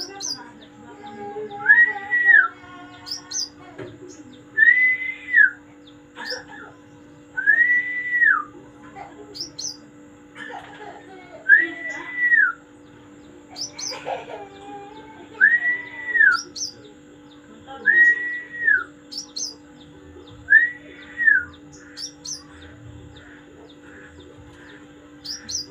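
A songbird repeating one clear whistled note that rises then falls, seven times, about every three seconds, with short high chirps between the whistles.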